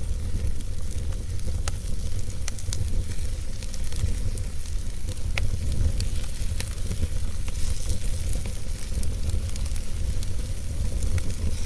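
Wood fire burning in a fireplace: a steady low rumble of flames with irregular sharp crackles and pops and a hissing sizzle.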